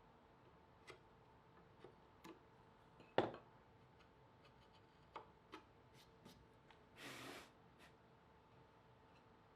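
Scattered light clicks and taps of wood and tools being handled, with one louder knock about three seconds in and a brief scrape about seven seconds in, over a faint steady hum.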